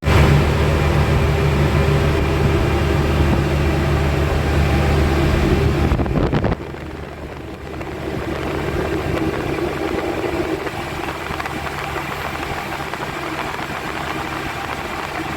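Ship's engine-room machinery running with a steady, loud hum. About six and a half seconds in it drops abruptly to a quieter, steady machine noise.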